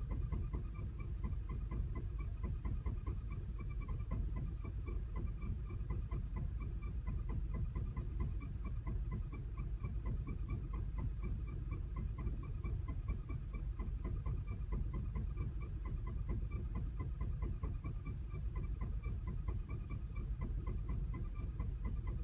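2010 Volkswagen CC engine running steadily at a rough idle, with fast, even ticking over a low rumble. The check engine light is flashing at these low revs, the sign of an active misfire.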